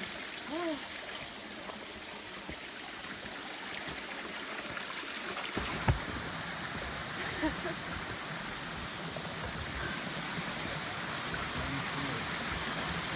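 Steady rushing of a mountain stream running with rainwater, an even hiss throughout. A brief voice is heard faintly now and then, and a single sharp knock about six seconds in.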